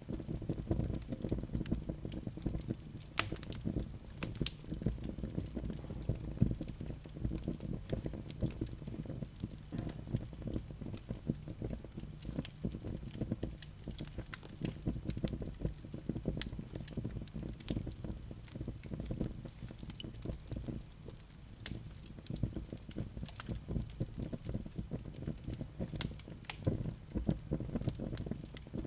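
Wood fire burning in a fireplace: a steady low rush of flames with constant crackling and small pops of burning wood, a few sharper snaps standing out.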